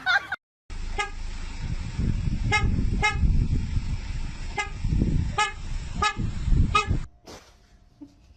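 A car horn tooting in short blasts, about eight in some six seconds, over a low vehicle rumble.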